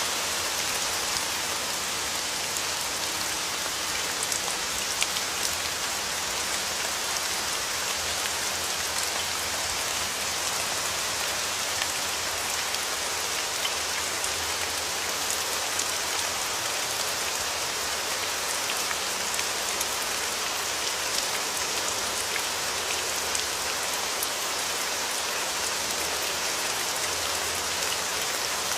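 Steady rain falling, a dense even hiss with many small scattered drop ticks, with no thunder.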